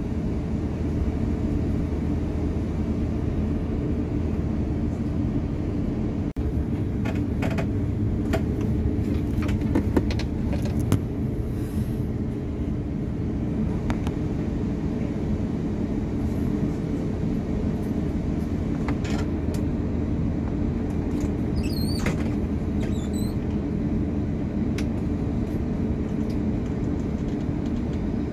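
Airbus A350-900 cabin noise: the steady drone of the jet engines and airflow heard from inside the cabin, with a few low hum tones held throughout. Scattered light clicks and rattles come through the middle, with a few brief squeaks about two-thirds of the way in.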